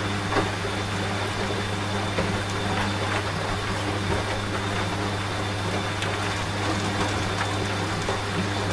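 Washing machine running with a steady low hum, together with rain falling, its hiss dotted with scattered drop ticks.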